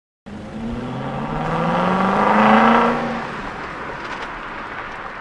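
A car engine accelerating, rising in pitch as it grows louder to a peak a little past halfway, then fading away as if the car passes by.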